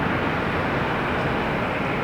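Steady roar of jet aircraft engines, an even noise with no distinct tones.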